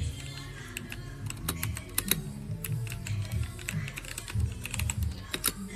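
Typing on a mechanical keyboard: a quick, irregular run of key clacks from its switches, over background music.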